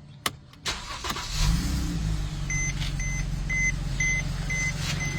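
2012 Mercedes-Benz C300 4Matic's V6 cranked and started through a catless exhaust with mufflers, catching quickly and settling into a steady idle. A warning chime beeps about twice a second from around two and a half seconds in.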